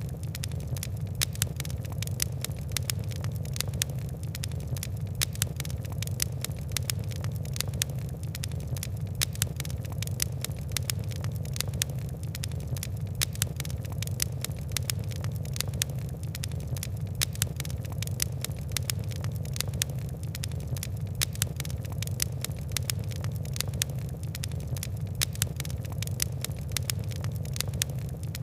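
Wood and coal fire crackling: a dense, irregular stream of small sharp pops and ticks over a steady low rumble.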